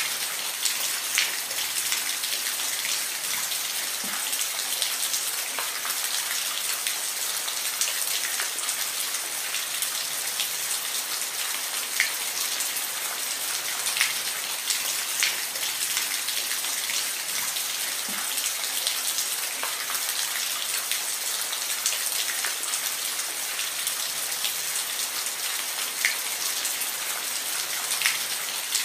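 Steady rain, a high hiss with scattered louder drops ticking on a hard surface close by.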